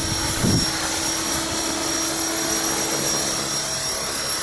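Align T-Rex 500 electric RC helicopter in flight: a steady rotor and motor hum with a high, thin whine. Wind rumbles on the microphone about half a second in.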